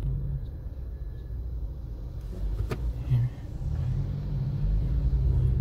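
Low, steady rumble of a Toyota Corolla heard from inside its cabin, with a single sharp click about two and a half seconds in.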